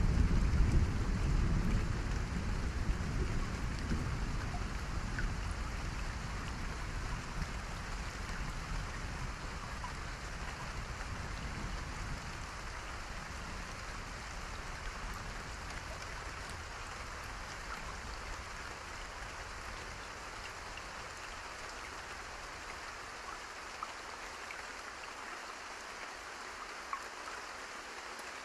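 Steady rain hiss, with a deep rumble of thunder at the start that fades away over the first dozen seconds or so.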